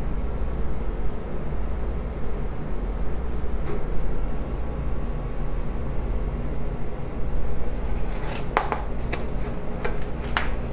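Light clicks and taps of hands and a utensil against a baking dish while biscuit dough is spread over a casserole, bunched near the end, over a steady low hum.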